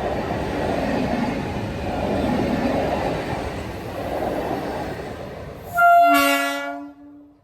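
Express train of Indian Railways running past at speed, a steady rushing rumble of wheels and coaches. About six seconds in comes a loud horn blast of about a second, and then the sound cuts off suddenly.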